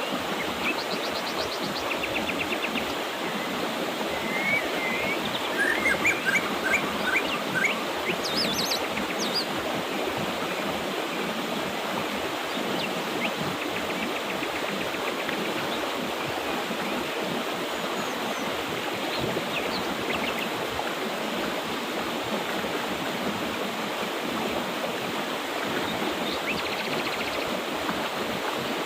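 Mountain river rushing steadily, with birds chirping over it in short scattered calls, busiest in the first ten seconds and again briefly later on.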